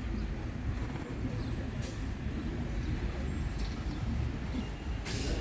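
Steady low outdoor rumble with a brief hiss just before the end.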